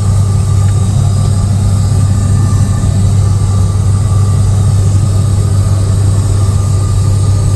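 Steady cabin drone of an ATR 72-600 in cruise, heard from inside the lavatory: the twin turboprop engines and propellers make a constant low hum with a faint higher steady tone above it.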